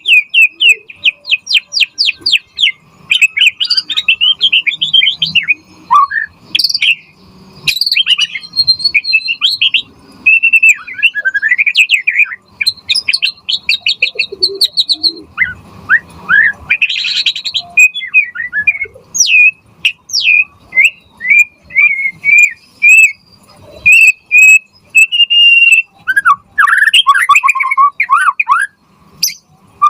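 White-rumped shama (murai batu) singing a long, varied song of rapid trills, whistled glides and quick chirps, phrase after phrase with only brief pauses.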